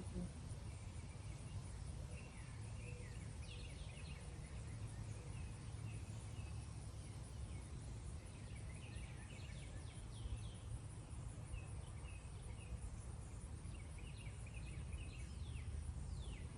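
Small birds chirping and singing in short bursts, in several clusters, over a steady low rumble.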